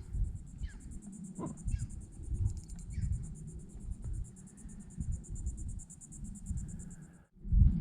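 Wind rumbling and buffeting on the microphone, with water lapping and light knocks on a kayak hull. Over it, a steady high, fast-pulsing buzz of an insect, which cuts off suddenly near the end.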